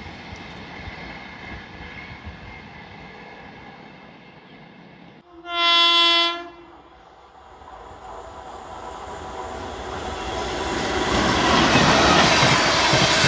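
Indian Railways locomotive horn gives one blast of about a second and a half, the loudest sound here. Before it, steady rail noise from a train breaks off abruptly; after it, an approaching express train's rumble and wheel-on-rail noise grow steadily louder toward the end.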